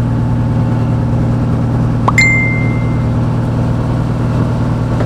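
Steady low drone of a boat engine running at idle. About two seconds in, a single metallic clink rings briefly.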